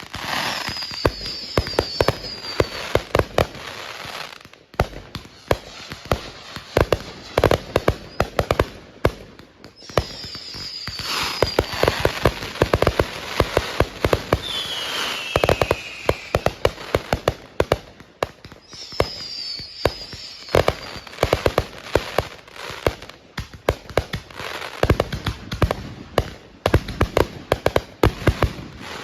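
Consumer fireworks going off: dense runs of sharp bangs and crackling that swell in several waves, with a few short whistles falling in pitch.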